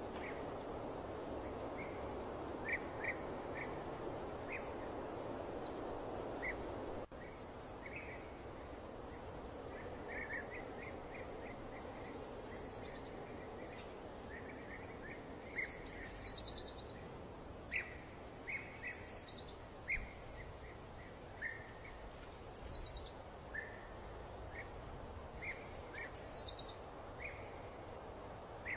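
Birds singing over a steady background rush that drops away abruptly about seven seconds in. After that, one bird repeats a quick, high, falling call every three to four seconds, with softer chirps in between.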